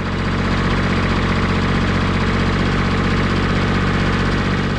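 1957 Porsche P133's air-cooled three-cylinder diesel engine running steadily, fading out near the end.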